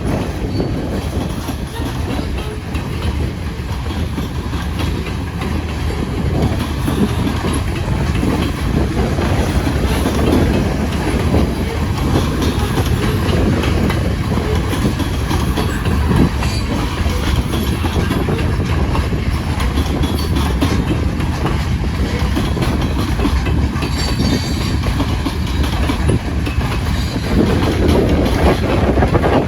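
Loaded grain train's railcars rolling past, a steady loud rumble of steel wheels on the rails.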